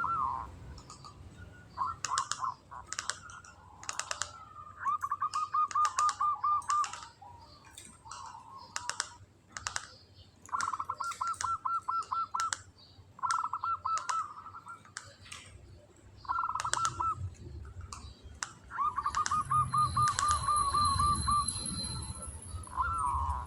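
Zebra dove (perkutut) singing in a rapid stuttering trill of quickly repeated notes, in several separate bouts, with sharp clicks scattered between them.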